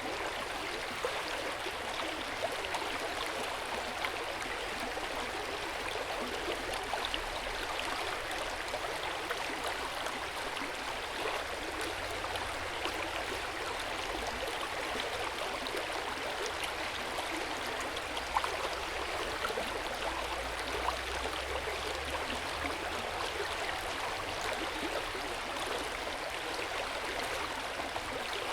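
Hot-spring water pouring steadily into an open-air rock bath, a continuous splashing and trickling with small droplet ticks.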